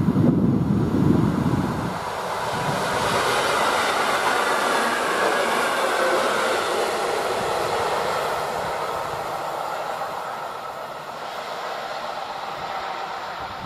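Electric multiple unit passing at speed: a rushing rumble of wheels on rail that swells as it goes by, then slowly fades as the train recedes. Loud low buffeting of wind on the microphone in the first couple of seconds.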